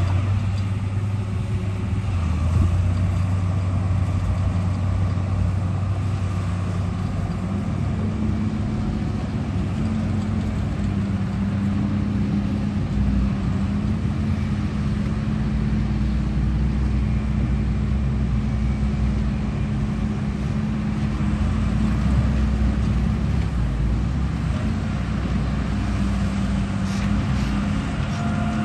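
A vehicle engine running steadily, a deep hum whose pitch steps up slightly a few times.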